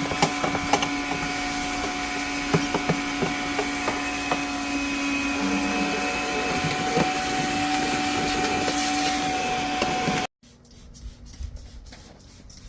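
Steady motor-driven whir with a constant hum and scattered clicks and knocks from work on an air-conditioning system. It cuts off suddenly about ten seconds in.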